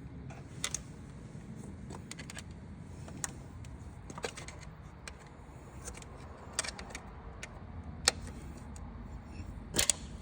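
Scattered sharp metallic clicks and clinks of hand tools working on engine parts, spaced irregularly a second or more apart, with the loudest pair near the end, over a low steady hum.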